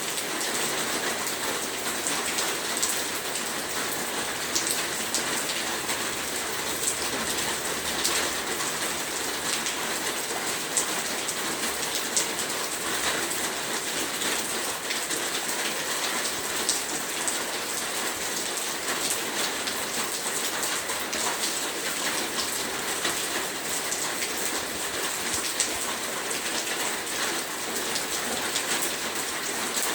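Heavy rain falling steadily, a dense hiss with many individual drops pattering sharply on a hard surface.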